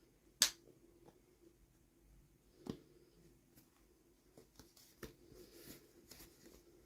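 Small plastic toy packaging being handled and opened: a few sharp clicks, the loudest about half a second in, with soft scattered rustling.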